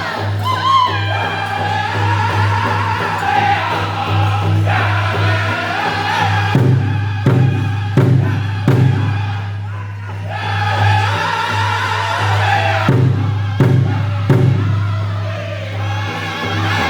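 Powwow drum group singing in high, wavering voices over a large powwow drum beaten steadily. Twice, a run of three or four accented hard beats stands out, about 0.7 s apart.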